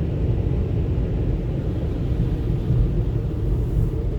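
Steady low rumble of tunnel car wash machinery heard from inside the car's cabin as soft cloth buffing pads pass over the vehicle; the pads themselves make almost no sound on the body.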